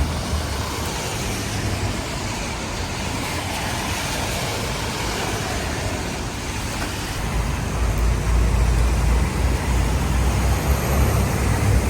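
Road traffic on wet pavement: a steady hiss of tyres and engines, with a low rumble that grows louder about halfway through as a vehicle draws near.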